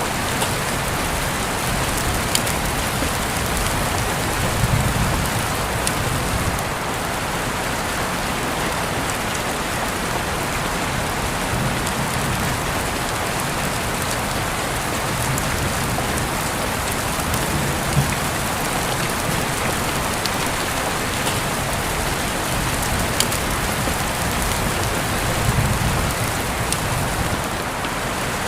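Steady rain falling, a dense even hiss with scattered sharper drop ticks and a few faint low swells.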